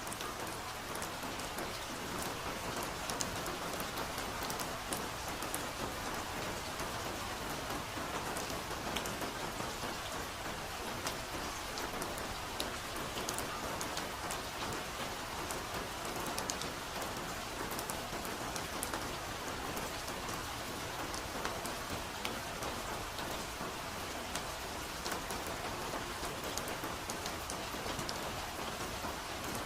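Steady soft rain falling on foliage, an even hiss with many small drop ticks scattered through it.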